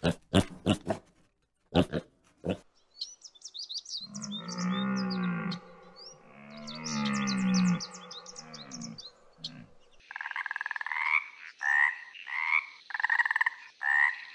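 A piglet gives a few short grunts. Then come two long, low moaning calls with bird chirps above them. From about ten seconds in, a tree frog croaks in a series of repeated calls, about one and a half a second.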